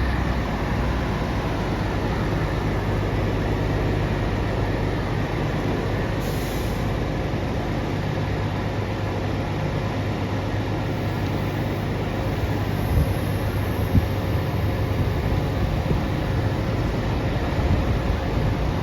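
Truck engine running steadily with a low rumble. A short hiss comes about six seconds in, and two knocks come a little past the middle.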